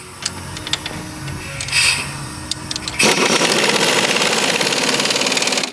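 A power wrench runs a fastener on a car's front strut: a loud, steady, fast rattle starting about three seconds in and cutting off suddenly. Before it come a few light tool clicks and a short hiss.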